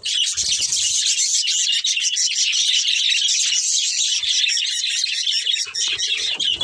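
Several budgerigars chirping and chattering rapidly without a break.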